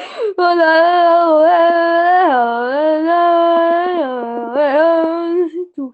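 A single voice singing one long held note without words. The pitch dips lower a little over two seconds in, comes back up near the end, then stops.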